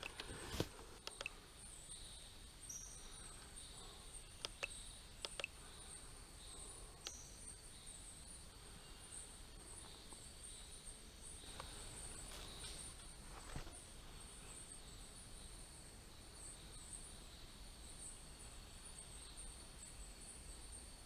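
Rainforest insects trilling steadily at two high pitches, with a handful of faint, sharp clicks and taps scattered through the first half.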